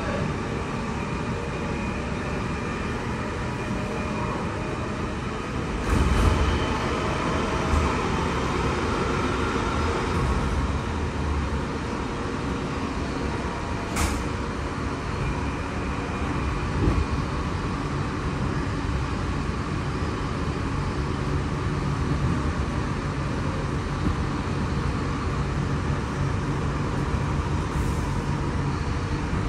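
Inside a Sydney Trains K set, a Goninan-built double-deck electric train, running at speed: a steady rumble of wheels on rails. The rumble grows louder about six seconds in, and one sharp click comes about halfway through.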